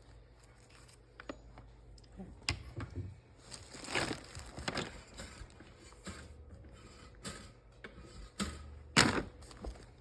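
Rustling and scattered knocks and clatter of chips and a container being handled, with a sharp knock about nine seconds in.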